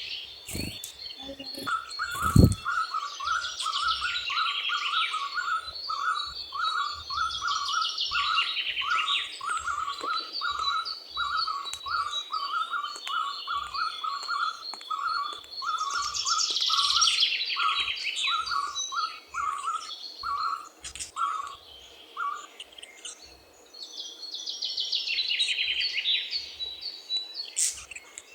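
Birds calling: a steady run of short, evenly spaced notes about two a second for most of the stretch, under recurring bursts of fast high chirping, with a great tit among the singers. A thin steady high tone runs underneath, and a few low thumps come near the start.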